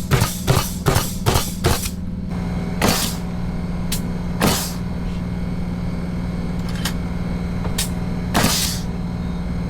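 Hammer driving nails into wooden siding, quick strikes about three a second that stop about two seconds in, followed by a few single knocks. A steady machine hum runs underneath throughout.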